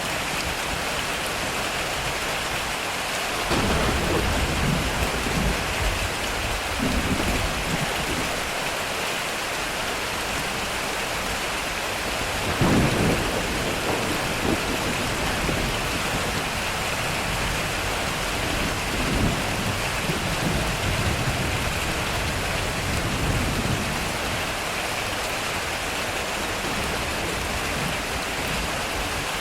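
Heavy rain drumming steadily on a metal roof, with rolling thunder: a long rumble starting about three seconds in, a louder peal near the middle, and further rumbling in the second half.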